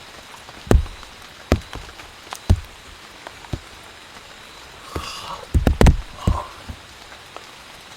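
Irregular sharp taps and thuds, a dozen or so unevenly spaced, with a loud cluster a little past the middle.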